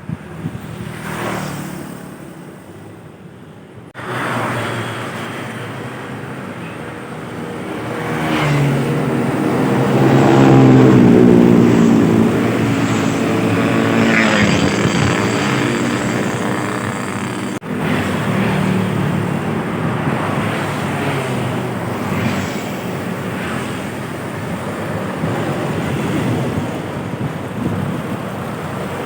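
Heavy diesel trucks and buses driving past on a road, engine noise with tyre and road noise. The loudest pass comes about ten seconds in, the engine note rising and then falling as it goes by, and the sound changes abruptly twice.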